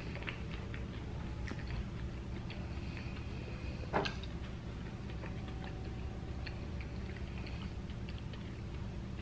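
Close-miked chewing of a hot dog in a soft bun, with scattered wet mouth clicks and one sharper click about four seconds in, over a steady low hum.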